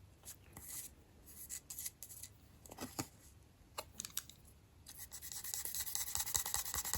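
Fiberglass pen scratching over a freshly soldered metal davit part to clean off solder overflow: scattered short strokes at first, then rapid steady scrubbing from about five seconds in.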